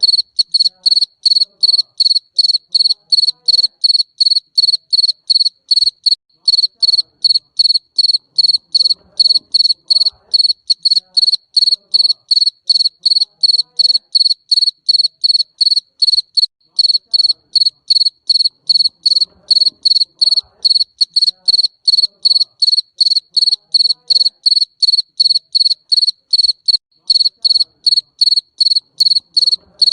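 Garden cricket chirping, a loud, high, shrill chirp repeating evenly about three times a second without a break.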